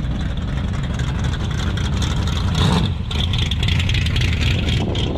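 A hot rod with an exposed engine driving slowly past, its engine running with a steady low exhaust note that swells briefly around the middle.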